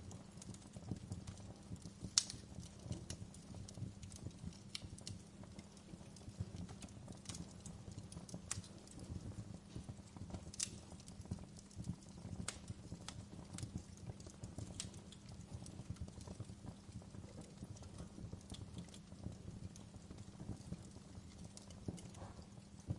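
Wood fire burning in a fireplace: a steady low rumble of the flames with irregular sharp crackles and pops, the loudest pop about two seconds in.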